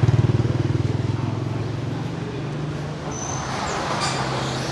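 Motorbike engine running close by, loudest at the start and fading over the first two seconds, then steady street traffic.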